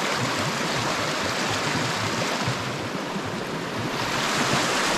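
Small mountain stream running, a steady rush of water that grows a little louder near the end.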